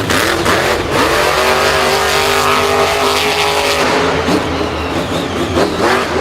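A vehicle engine running and revving: a pitched drone that holds fairly steady through the middle, then shifts in pitch near the end.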